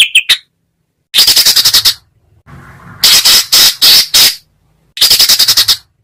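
Songbird giving harsh, rattling calls: bursts of rapid pulses under a second long, repeated three or four times with short pauses between.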